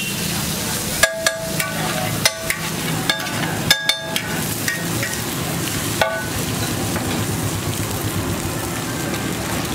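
Egg mixture sizzling on a flat griddle while a metal spatula chops and scrapes it. A run of sharp, ringing clanks of the spatula striking the griddle comes between about one and four seconds in, with one more about six seconds in.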